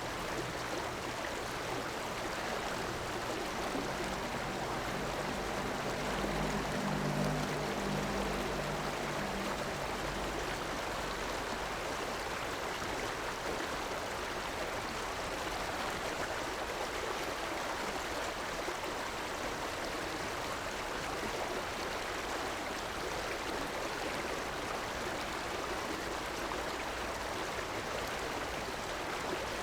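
Steady rush of flowing river water. A low hum swells and fades between about four and ten seconds in.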